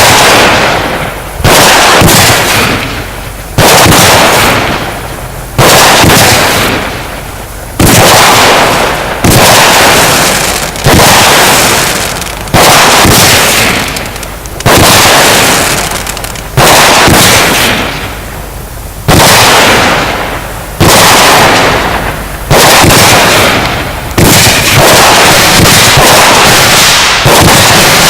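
A firework battery firing shot after shot, a sharp bang every one and a half to two seconds, each followed by a crackling tail that dies away.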